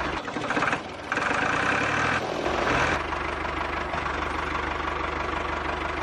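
Engine idling with a steady, rapid knocking beat. It dips briefly about a second in, then comes back with a brighter, higher layer for a second or so.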